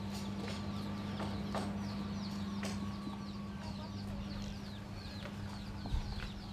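Birds chirping over and over in short, quickly falling calls, over a steady low hum, with a single thump near the end.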